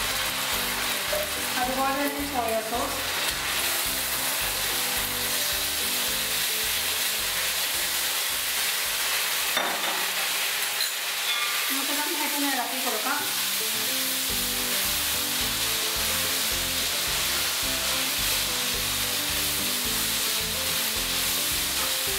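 Chilli sauce and soy sauce sizzling in hot oil with chopped garlic and chillies in a metal kadai, stirred with a plastic spatula.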